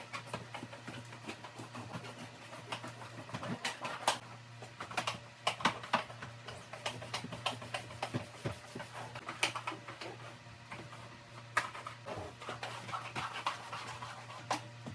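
Scattered light clicks, knocks and rustles of household items being handled during cleaning, at irregular intervals over a faint steady hum.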